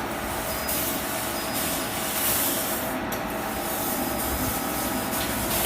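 Fiber laser tube cutting machine running with a steady hissing noise and a faint steady tone underneath.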